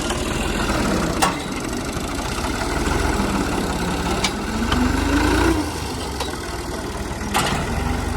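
Old tractor engine running, its speed dipping and then rising until it drops back about five and a half seconds in, with three sharp knocks along the way.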